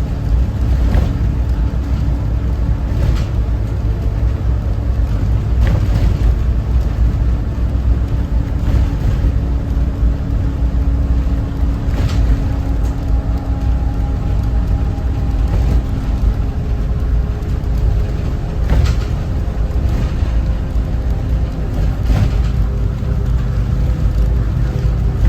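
Cummins ISB 6.7 inline-six turbo-diesel of a Thomas Saf-T-Liner C2 school bus running under way: a steady low rumble with a drone that drifts slightly in pitch. Scattered sharp knocks or rattles come through every few seconds.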